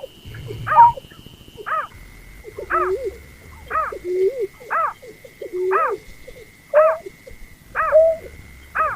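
Recorded lure call of the berkik (snipe), used for bird hunting: short arched call notes repeating about once a second, some followed by a lower note. A steady thin high whine runs underneath and drops in pitch about two seconds in.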